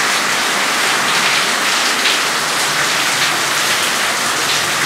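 Heavy rainy-season downpour pouring steadily onto a flooded terrace, an even, unbroken hiss of rain.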